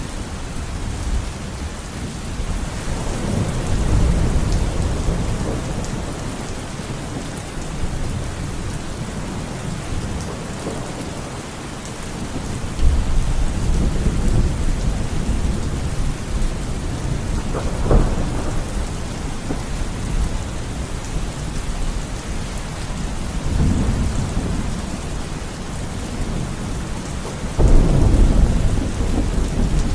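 Steady rain with rolling thunder: low rumbles swell several times, a sharp crack sounds about two-thirds of the way through, and a loud rumble comes in near the end.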